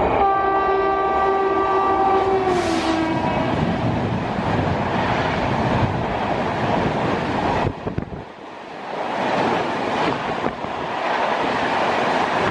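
WAP-7 electric locomotive sounding one long horn blast of about three seconds, its pitch dropping near the end as it passes. Then the loud rush and clatter of passenger coaches going by at speed, briefly dipping about eight seconds in.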